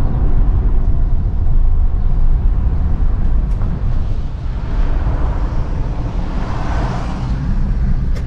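Engine and road noise of a four-wheel-drive vehicle driving slowly, heard from inside the cabin: a steady low rumble, with a swell of hiss about five to seven seconds in.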